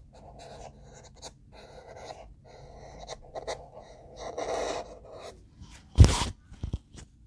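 Drawing strokes scratching across paper, several short strokes one after another, then a single loud thump about six seconds in, followed by a couple of lighter knocks.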